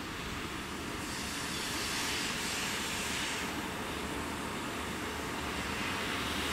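Russian Railways 2ES10 electric locomotive hauling a freight train as it approaches: a steady rail rumble and hiss, slowly growing louder.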